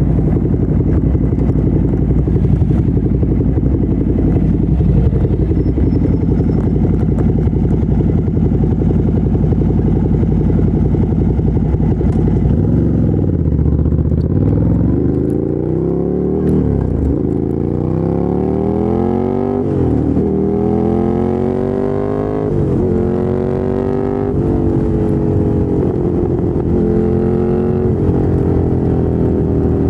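2017 Ducati Monster 797's air-cooled L-twin through a LeoVince LV-10 exhaust, running steadily at low revs, then from about halfway accelerating hard through the gears: the pitch climbs and drops at each upshift, and eases down toward the end as the throttle closes.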